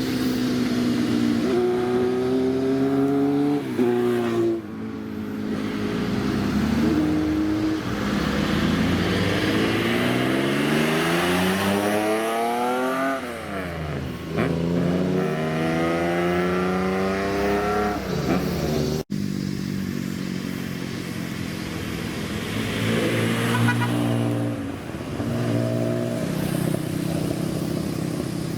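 Car engines of modified Japanese cars revving and accelerating, the pitch climbing and dropping several times as they rev up and pull away. A sudden cut about two-thirds of the way through brings in another car idling and then revving.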